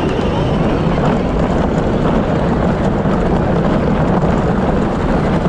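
Power Wheels ride-on toy car driving, with a steady, loud running noise from its electric drive and wheels.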